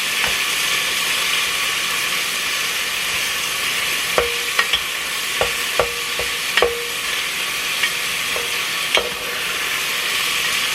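Ground chuck sizzling steadily as it browns in a Presto electric kettle, the fat frying out of the meat. From about four seconds in, a utensil clinks against the pot several times as the meat is stirred.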